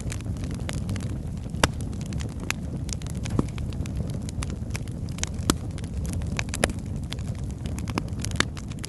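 Burning logs in a fireplace crackling: a steady low rumble of flame with irregular sharp pops and snaps, a few of them much louder than the rest.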